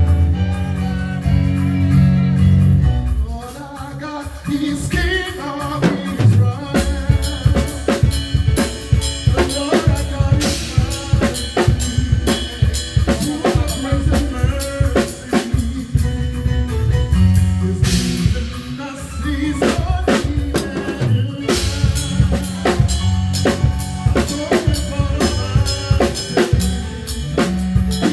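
Live band playing, led by a drum kit with kick, snare rim shots and cymbal crashes over held bass and keyboard chords. The drums drop back briefly about three seconds in, then come in with a busy groove.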